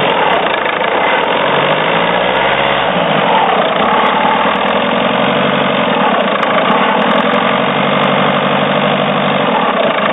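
Citroen C4's engine idling steadily, running with the strange noise its owner is trying to show. The engine note wavers briefly about two to three seconds in.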